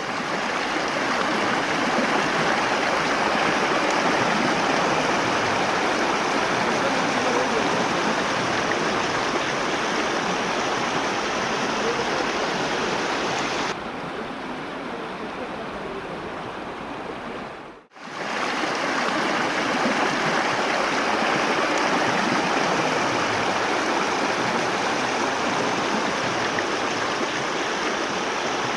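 River water rushing steadily over rocks. About fourteen seconds in the rushing turns duller and a little quieter, then drops out briefly at about eighteen seconds before the full rushing returns.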